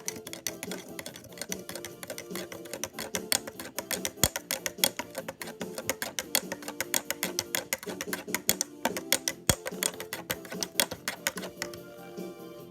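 Spoon stirring hot cocoa mix in a mug, clinking quickly and unevenly against its sides, several clinks a second.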